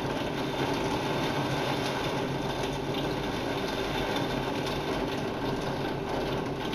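Heavy thunderstorm downpour drumming steadily on a window pane and the building, heard from behind the glass, with a faint steady hum underneath.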